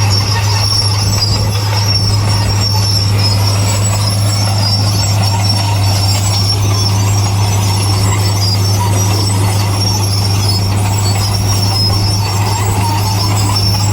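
Crawler bulldozer working: a deep, steady engine hum with a steady high metallic squeal over it, typical of steel crawler tracks.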